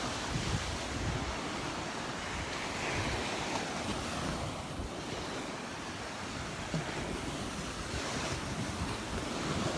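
Gulf surf washing onto the beach, a steady rush of waves, with wind buffeting the microphone.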